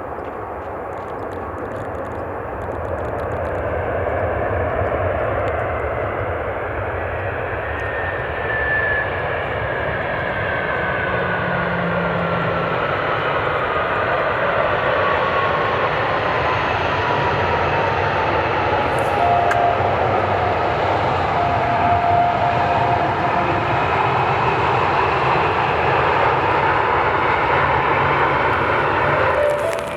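Jet airliner passing close by on take-off or landing: a loud, building engine roar, with a whine that falls slowly in pitch as the aircraft goes past. The sound cuts off suddenly near the end.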